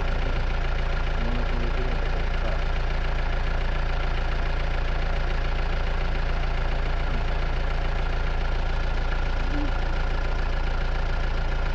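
A motor vehicle's engine idling steadily: an even, unchanging low drone.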